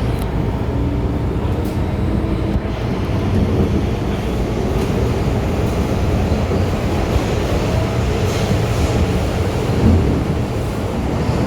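MTR M-Train running along the Tseung Kwan O Line: a steady low rumble of wheels and running gear, with a faint whine that edges up in pitch.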